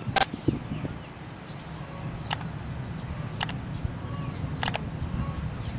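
Distant diesel train running, a steady low rumble, with several sharp clicks and faint bird chirps over it.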